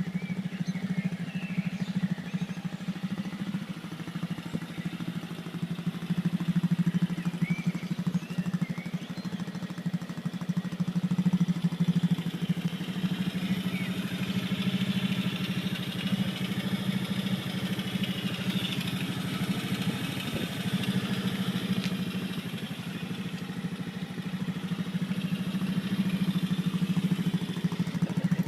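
Small 150cc quad-bike engine running steadily in a converted dodgem car, its loudness rising and falling.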